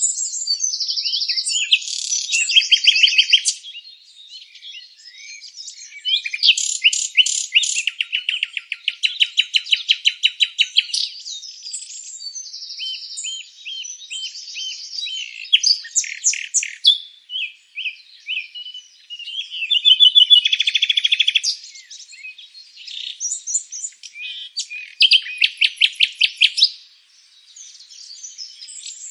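Several songbirds singing, phrase after phrase of rapid trills and chirps that overlap and follow one another, with brief lulls.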